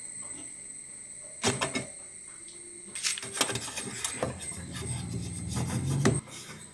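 Hand tools and motorcycle body parts being handled. There are sharp knocks and clicks about a second and a half in and a quick run of them around three to four seconds in, then a scraping, rubbing sound until about six seconds in.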